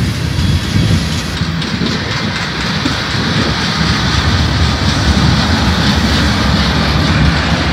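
Freight train cars, tank cars and gondolas, rolling past at close range: the steady, loud noise of steel wheels running on the rails.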